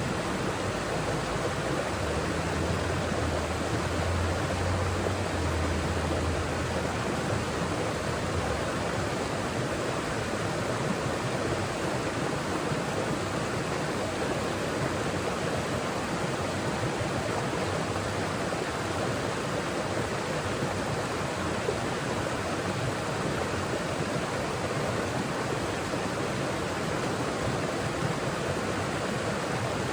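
Mountain forest stream flowing over rocks, a steady rush of water. A low rumble rises under it about two seconds in and fades about five seconds later.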